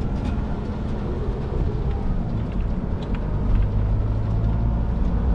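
A car driving: steady low engine and road rumble heard from inside the car.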